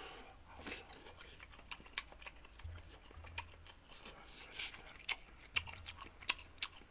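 A person chewing and smacking a mouthful of food, with many short, sharp clicks scattered throughout.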